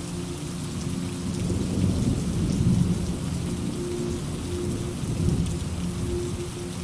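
Steady rain falling, with low thunder rumbling underneath that swells about a second and a half in and again near five seconds.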